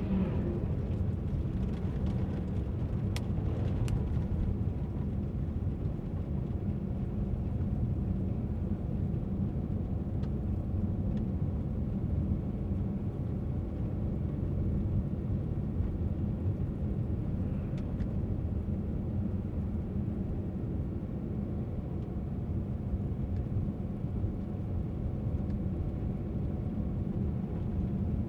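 A car driving at a steady pace: even engine hum and road noise, with a few faint clicks about three and four seconds in.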